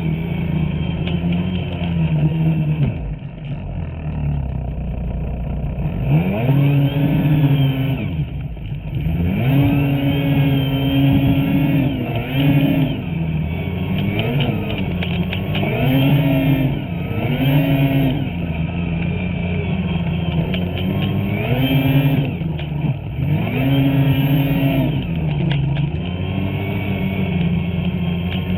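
Two-stroke snowmobile engine revving up and down over and over as the throttle is worked, its pitch climbing and dropping roughly every two seconds.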